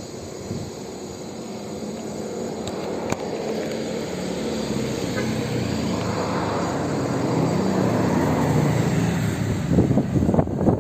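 A vehicle's steady hum and rushing noise, growing gradually louder as it approaches.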